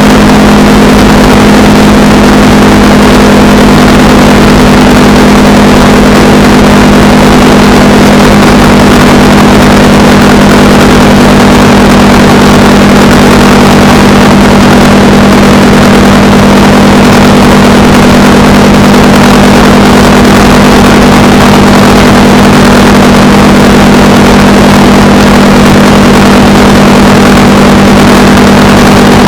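Honda Rebel 300 motorcycle's single-cylinder engine running at a steady cruising speed, with loud wind rushing over the microphone. The engine hum holds one pitch with no revving or shifting.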